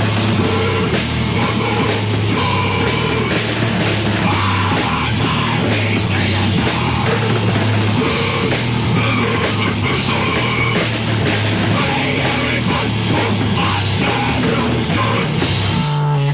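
Heavy metal band demo recording: distorted guitars, bass and a drum kit with dense, rapid drum and cymbal hits playing at full volume. The song stops abruptly at the very end.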